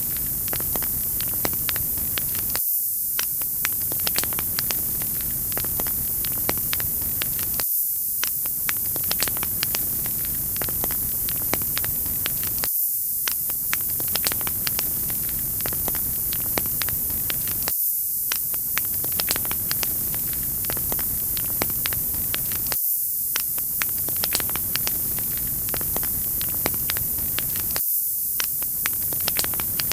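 Wood fire crackling: a steady hiss with frequent sharp pops and snaps. A short recording loops about every five seconds, with a brief dip in the lower sounds at each join.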